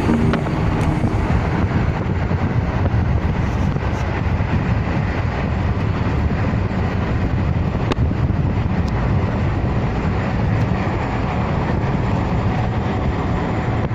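Steady low engine drone with rushing wind and water noise from a ferry boat underway.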